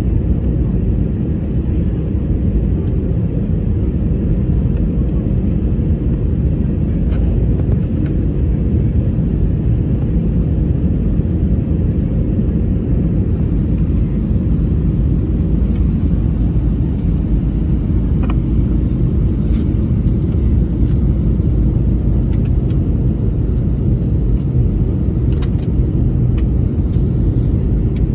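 Airliner cabin noise: a steady low rumble of the engines and the air rushing past the fuselage, with a few faint clicks.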